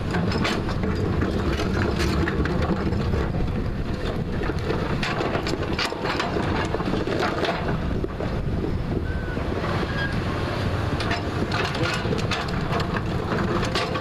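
JCB 3DX backhoe loader's diesel engine running steadily under load as it digs into a hillside, with frequent short clanks and scrapes of the bucket against soil and rock.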